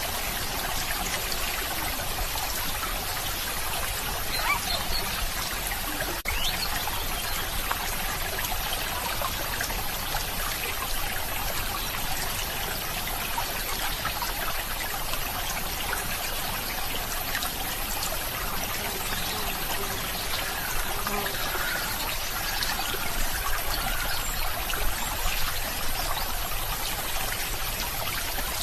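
Running water in a stream, trickling and splashing steadily.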